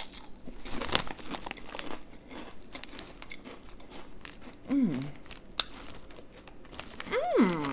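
Close-up chewing of a crunchy kettle-style potato chip: sharp crunches in the first couple of seconds, then softer chewing. Two short 'mm' hums of enjoyment, about five and seven seconds in.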